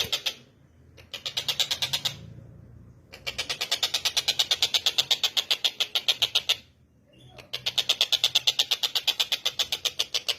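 Tengkek buto calling with a fast, even chattering rattle of short high notes, about ten a second. It comes in four bouts broken by pauses of about a second.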